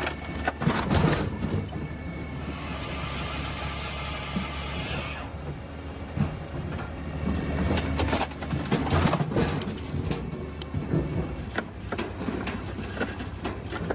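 Firewood processor working: a steady engine drone with repeated knocks and clatter of wood. A hiss starts about two seconds in, lasts about three seconds and cuts off suddenly.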